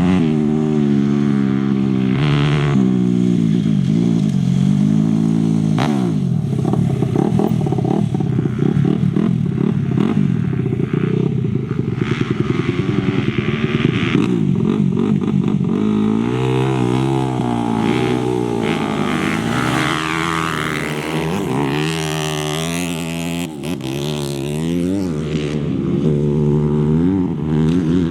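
Engines of off-road race motorcycles and quads revving, their pitch rising and falling again and again as they accelerate and pass.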